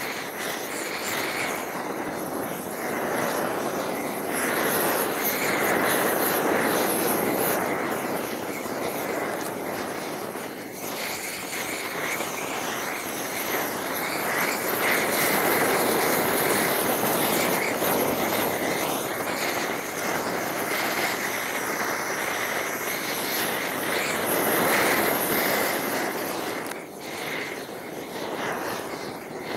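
Homemade gas roofing torch running with a steady rushing noise that swells and eases, as it melts torch-on bitumen roll roofing.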